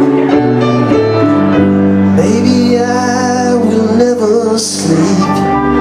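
Live band music: sustained melody notes over held chords, before the song's sung verse.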